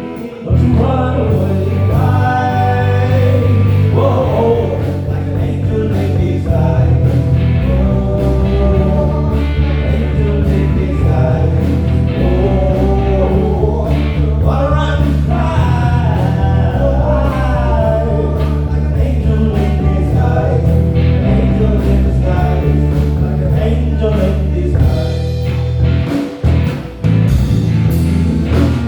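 Live soul band playing an instrumental passage: electric bass, drums and keys, with a pitched lead line gliding up and down over them. It drops out briefly a couple of seconds before the end.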